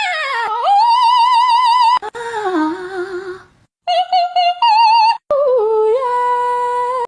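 A high voice singing long, wavering notes in several phrases, with short breaks between them.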